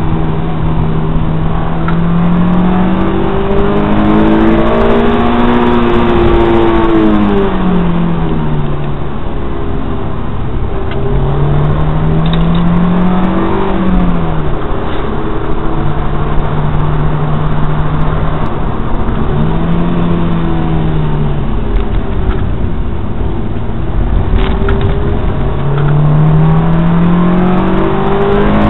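Honda S2000's four-cylinder engine heard from inside the cabin, its note rising under acceleration and falling back several times, holding steady in between as the car is driven through a series of bends.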